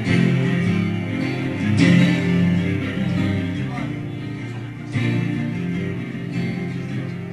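Instrumental passage of an acoustic rock song: strummed acoustic guitar chords, with fresh strong strums about two and five seconds in.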